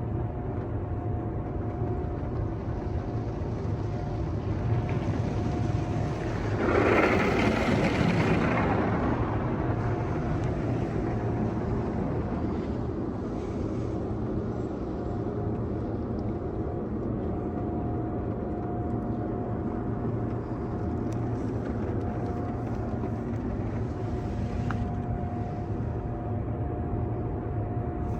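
Touchless in-bay automatic car wash heard from inside the car: a steady machine drone with a constant whine from the wash equipment. About seven seconds in, a loud rush of water spray hits the car for about three seconds, then eases off.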